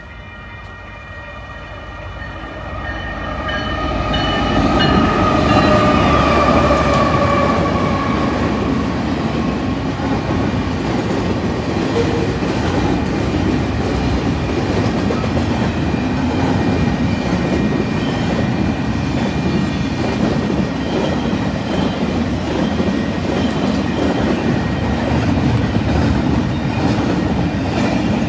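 A Union Pacific freight train's locomotive horn sounds a held chord that drops in pitch and fades out by about ten seconds in. The loud rumble of the diesel locomotives and then the double-stack container cars rolling by builds up within the first five seconds and goes on steadily.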